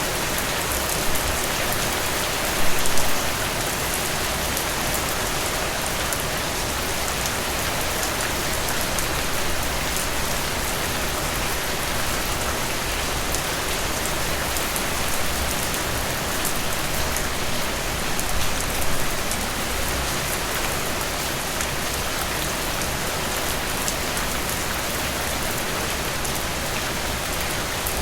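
Heavy, steady rain falling and hitting surfaces, a dense even hiss of drops, with a couple of brief louder swells, one about three seconds in and another near the middle.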